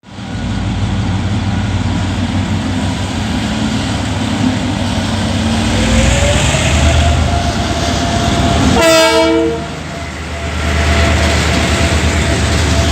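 Diesel train engine running, its pitch rising into a steady whine about six seconds in as it takes power to pull out of the station, with one short horn blast about nine seconds in.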